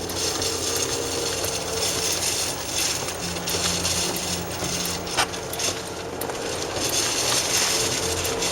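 Car driving at speed, heard from inside: steady road and wind noise over a low engine hum, with one sharp knock about five seconds in.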